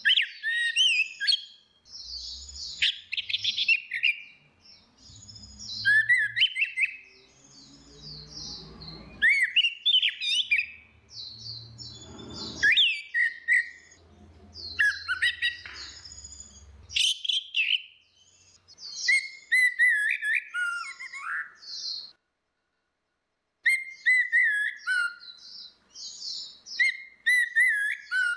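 Orange-headed thrush singing, a rapid run of varied whistled phrases with hardly a pause, over a low rumble in parts of the first half. The song breaks off for a moment of dead silence a little past two-thirds through, then resumes.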